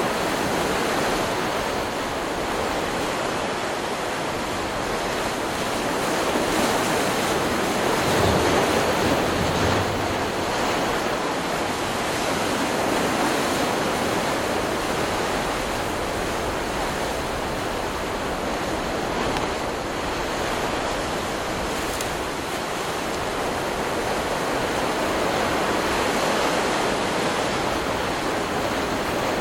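Stock recording of ocean surf: waves breaking and washing up the shore in a continuous rush, swelling a little about eight seconds in.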